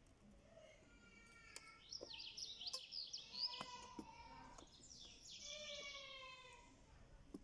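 Birds chirping in two bursts of quick sweeping calls, about two and five seconds in, with a few sharp clicks of a wrench on the air-intake hose clamp.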